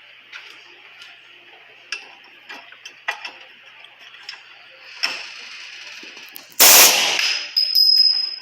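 Workshop tool work on metal: scattered sharp clicks and knocks, then two loud short bursts of noise near the end, the second one with a thin high whine.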